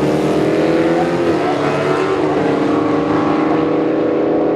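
A drag-racing vehicle's engine accelerating hard, its pitch stepping down at gear changes about one and two seconds in and climbing again after each.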